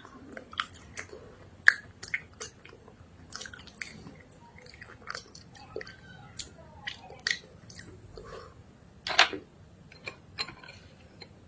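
Close-miked chewing of chalk paste: irregular short crunches and wet mouth clicks, the loudest about nine seconds in.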